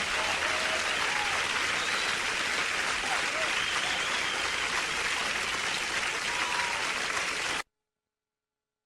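Concert audience applauding and cheering with a few shouts at the end of a live song performance; the applause cuts off abruptly near the end into silence.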